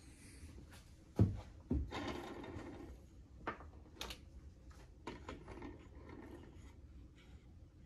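Hand work at an arrow-making bench: two sharp knocks a little over a second in, a short scraping rustle, then a few scattered clicks of tools and parts being handled.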